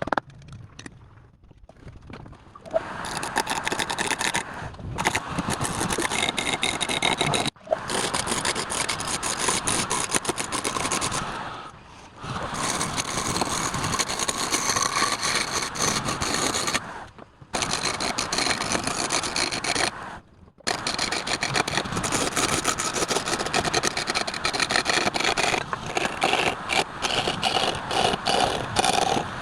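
A turning tool cutting and scraping wood spinning on a lathe, in long spells broken by a few short pauses.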